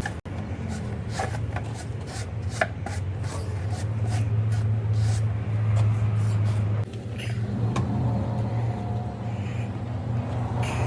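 Steady low machine hum under a run of irregular scraping and tapping strokes, several a second, typical of hand work on heavy tyre rubber with tools.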